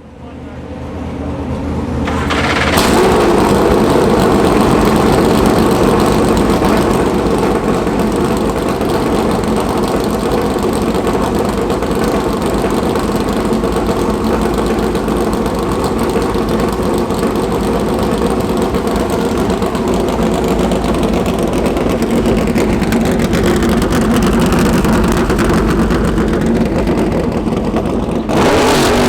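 Corvette Daytona Prototype race car's V8 engine firing up about three seconds in, then running loud and steady with slight changes in pitch. The sound changes abruptly just before the end.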